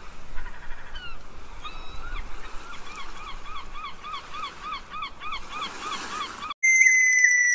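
A bird calling: a few scattered calls, then a fast, even series of short arched calls, about three a second. About six and a half seconds in it cuts off abruptly and a loud, steady electronic tone begins, sliding slowly down in pitch.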